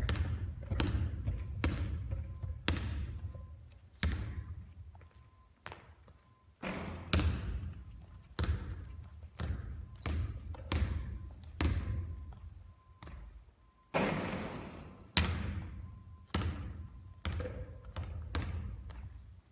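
Basketball bouncing on a hard court and striking the rim during repeated three-point shooting, a string of sharp impacts about one or two a second, each trailing off briefly. There is a short lull about five seconds in.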